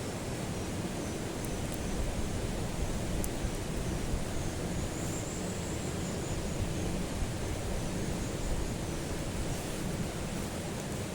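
Wood fire burning in a small titanium wood stove: a steady low rush with a few faint scattered crackles.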